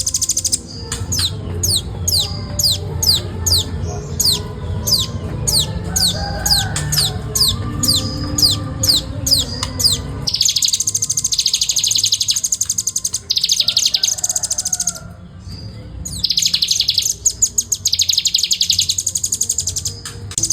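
Velvet-fronted nuthatch singing: for about ten seconds a string of high, quick downslurred notes, roughly three a second, then long runs of very fast, tight trilling broken by short pauses.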